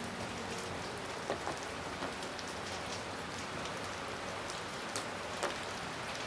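Steady rain falling in an even hiss, with a few separate drops landing sharply now and then.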